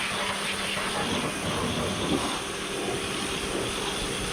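High-pressure washer running steadily: a faint motor and pump hum under the hiss of the spray.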